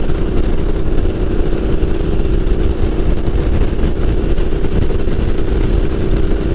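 Triumph Street Scrambler's 900cc parallel-twin engine running at a steady cruising speed, its note holding constant over a heavy low rumble.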